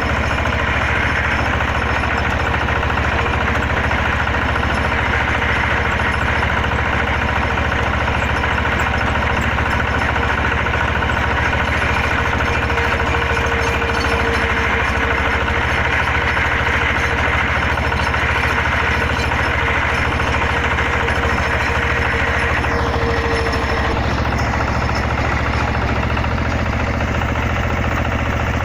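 XY-3 water well drilling rig's engine running steadily, its note shifting slightly late on.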